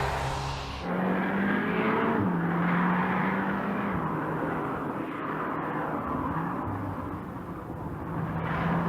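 Audi S3's turbocharged four-cylinder engine running at a steady pitch while the car is driven, over road and tyre noise; the engine note steps slightly lower about two seconds in.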